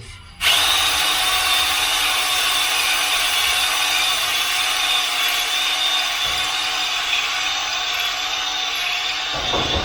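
Electric drill spinning a cylinder hone inside an engine cylinder bore. It starts suddenly about half a second in and runs at a steady speed with an even whine and the rasp of the hone on the bore wall. The bore is being cleaned of rust and dirt marks, not crosshatched for reassembly.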